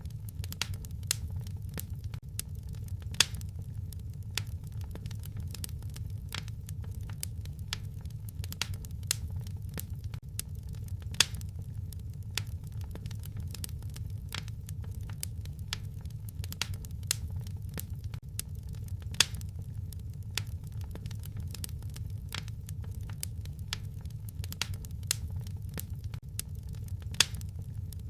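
Wood fire crackling in a fireplace: a steady low rumble of flames under irregular sharp crackles, with a few louder pops.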